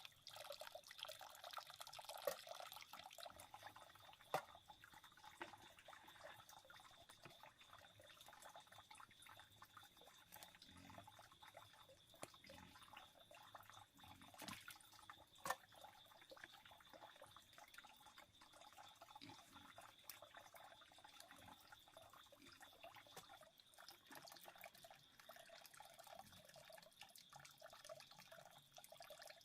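Faint trickle and drip of stream water under a thin, steady high tone, with a few sharp clicks.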